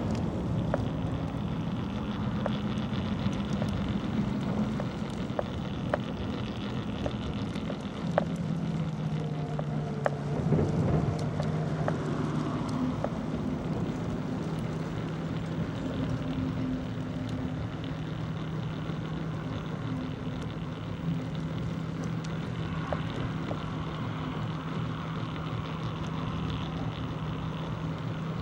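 A motor vehicle's engine humming steadily at a low even pitch, over a haze of wind and road noise, with a brief swell of noise about ten seconds in.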